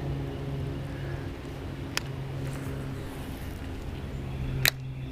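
A steady low engine drone, with two sharp clicks: one about two seconds in and one near the end.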